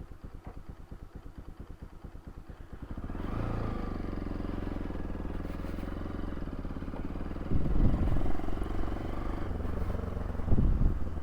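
Bajaj Pulsar NS200 single-cylinder motorcycle engine idling with an even putter, then about three seconds in it revs up and pulls away, running under load. Loud low buffeting comes twice, around the middle and near the end.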